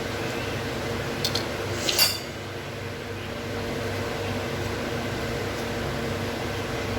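Steady machine hum of a household appliance, with two light clicks and then a sharper clink of dishware about two seconds in.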